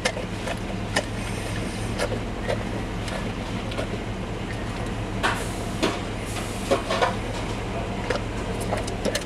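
Vehicle engine idling, a steady low hum inside the cab, with scattered short smacks and clicks, most of them midway through, as a bullmastiff licks and bites at a vanilla ice cream cone held up to her.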